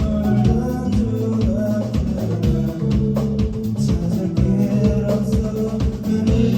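A rock band playing, with sustained guitar chords over a steady drum beat.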